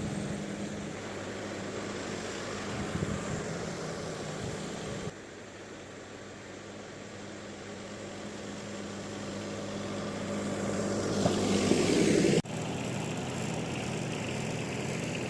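Tractor engine running steadily, heard in three pieces that break off abruptly. In the middle piece the sound grows steadily louder until it cuts off suddenly.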